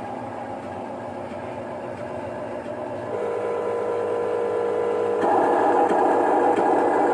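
Motors of a radio-controlled construction model whirring steadily. They get louder in two sudden steps, about three seconds in and again about five seconds in, as the machine is driven harder.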